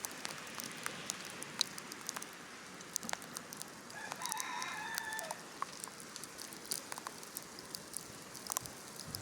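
A rooster crows once, about four seconds in: a single wavering call lasting a little over a second. Scattered small ticks and taps sound throughout.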